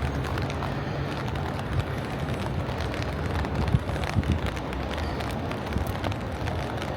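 Steady outdoor noise dominated by wind rumbling on the microphone, with scattered small clicks and knocks.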